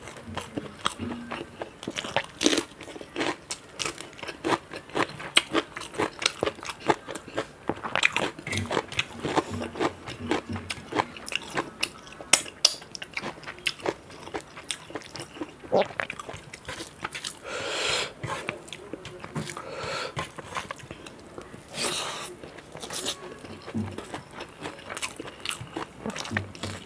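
A person eating close to the microphone: steady, irregular crunching bites and chewing, with mouth sounds between.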